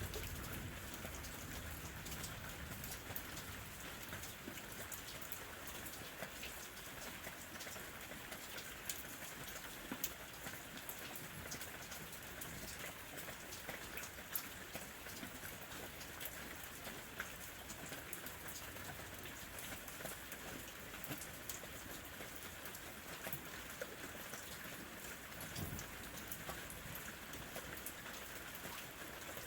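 Gentle summer rain falling steadily: an even hiss with many small drop ticks on a surface.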